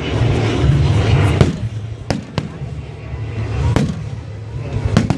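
Fireworks bursting during a finale: a string of sharp bangs, two of them in quick pairs, over a continuous low rumble of distant explosions.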